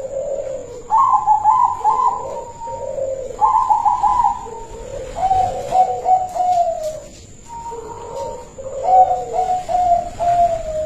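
Zebra dove (perkutut), silver colour morph, cooing its song: short phrases of rapid stuttering notes, each about a second long, alternating with deeper, rounder coos, repeated about five times.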